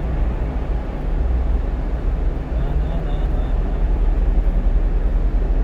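Steady low rumble of engine and tyre noise inside the cab of a 1-ton truck cruising at highway speed through a tunnel.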